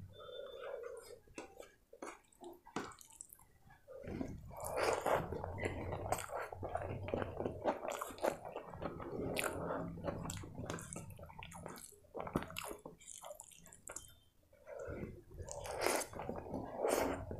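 Chewing and wet mouth sounds of rice mixed with spicy chicken curry being eaten by hand. Soft squishing and clicks for the first few seconds, then steady chewing from about four seconds in, a brief lull, and louder chewing again on a fresh mouthful near the end.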